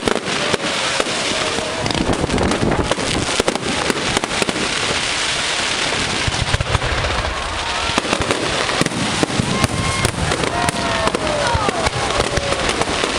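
Firework display: a continuous barrage of bangs and crackles, with several whistling fireworks gliding in pitch about two thirds of the way in.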